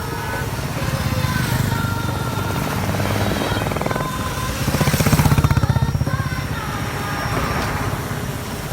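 Motorcycle engines running as bikes ride past, one passing close and loud about five seconds in.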